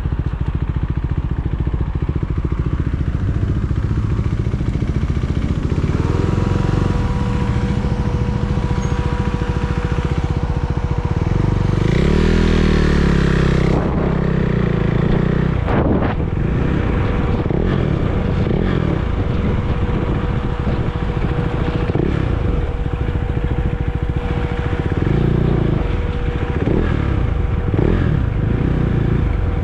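Motorcycle engine running under way, with its pitch rising and falling for a few seconds near the middle as the bike accelerates and shifts. A steady thin whine sets in about six seconds in and holds over the engine noise.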